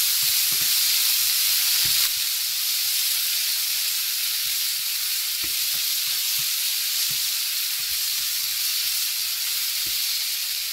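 Chopped vegetables and sauces sizzling in a hot frying pan while being stirred with a spatula: a steady hiss with light, irregular stirring strokes, a little quieter after about two seconds.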